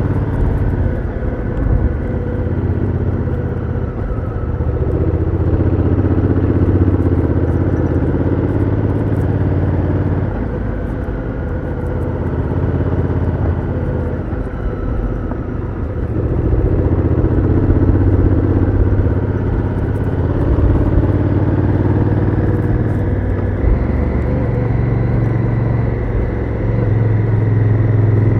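Honda Africa Twin CRF1000L's parallel-twin engine through its stock exhaust, heard riding onboard. The engine note rises and falls several times as the bike accelerates and its DCT gearbox changes gear.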